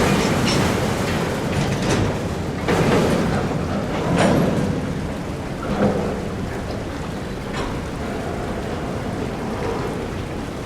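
Freight train cars rolling slowly along flooded track, with a steady rush and splash of water pushed around the wheels. The noise swells irregularly every second or two.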